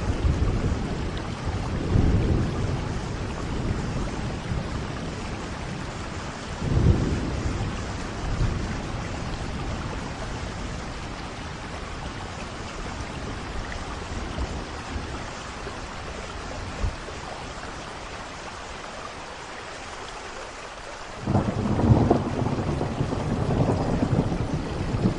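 Steady rain falling, with rolls of thunder rumbling underneath: low rumbles about 2 and 7 seconds in, a quieter lull, then a louder rumble building about 21 seconds in.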